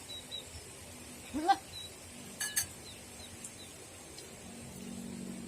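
A goat bleats once, briefly and rising in pitch, about a second and a half in, followed by a couple of sharp clicks. Faint high bird chirps come and go.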